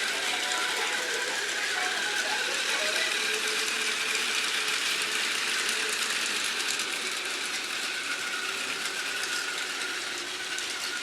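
Model train running on its track: a steady electric-motor whine with a fine rattle of wheels, easing off slightly near the end.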